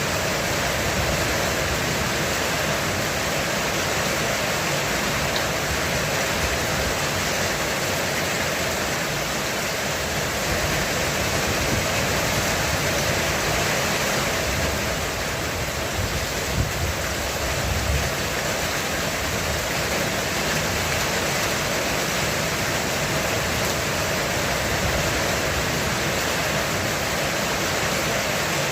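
Heavy rain falling steadily on a roof, an even dense hiss, with a brief low rumble of distant thunder about halfway through.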